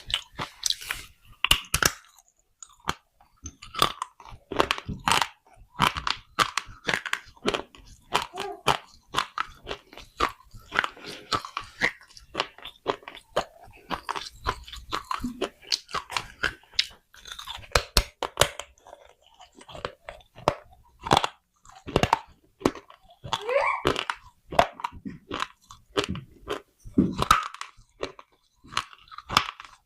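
Close-up crunching of brittle baked clay pot being bitten and chewed: sharp, irregular snaps and crackles, several a second, throughout.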